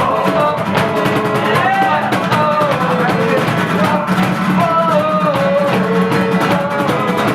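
Acoustic folk-punk band playing live: fast-strummed acoustic guitar with a stepping melody line over a steady low note.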